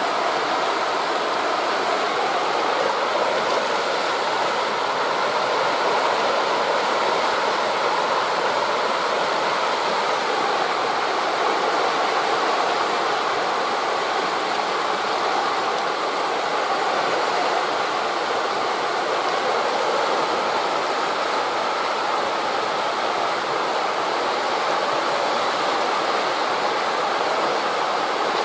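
Steady rushing of wind through forest leaves blended with the wash of sea surf, an even hiss without distinct wave surges.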